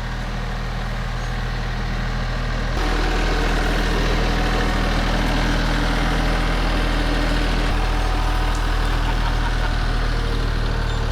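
Diesel engine of a TYM compact tractor running steadily. About three seconds in it steps up to a louder, busier running and holds there.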